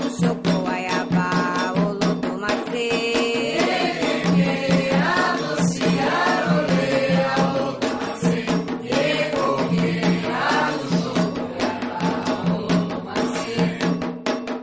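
Candomblé devotional song: chanted vocals over fast, steady hand percussion.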